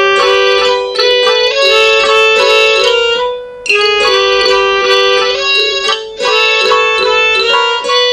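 Computer-generated MIDI music: fast runs of many overlapping high notes, with a string-like timbre, over held tones around the A above middle C. It drops out briefly about three and a half seconds in, then resumes.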